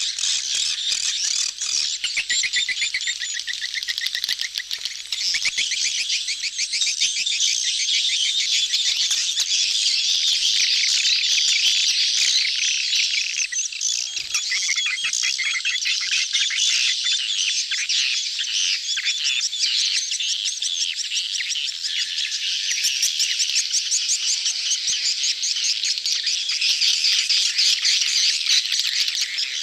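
A crowded colony of edible-nest swiftlets twittering without a break, many rapid overlapping chirps and trills. This is the massed courtship chatter of a swiftlet colony.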